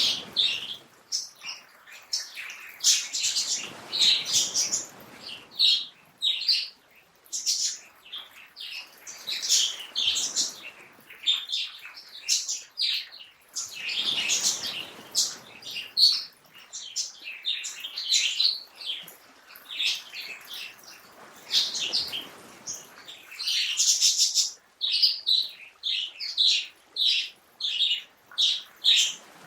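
Several small birds chirping and twittering busily, short overlapping calls in quick runs, over a faint steady hiss.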